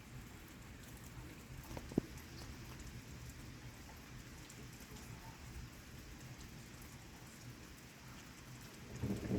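Steady rain falling, with a single sharp tap about two seconds in. Near the end, a low rumble of thunder sets in and grows loud, following a lightning flash.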